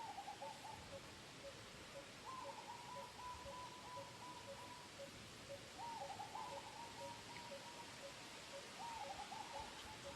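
Birds calling: a steady run of short, low, hooting notes about twice a second, with a higher rapid trill in several bouts of one to three seconds over it.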